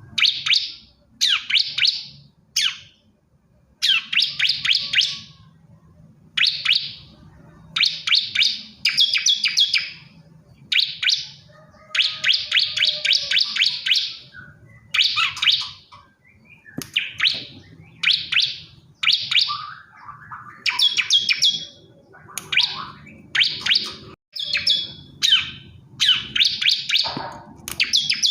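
Male bar-winged prinia (ciblek kristal) singing: repeated short bursts of rapid, high, sharp chirps with brief pauses between them, one burst about every second. A few bursts run longer, about two seconds.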